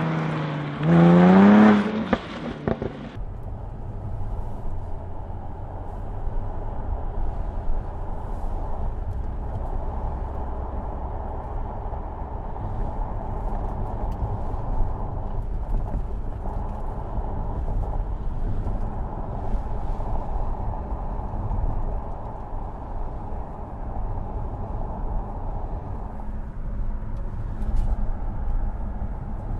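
Jaguar F-Type rally car's 2.0-litre four-cylinder petrol engine revving hard, its pitch rising, for about three seconds before cutting off abruptly. A steady low rumble follows, with no high end.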